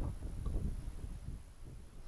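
Wind buffeting the microphone: an irregular low rumble, with a couple of faint clicks.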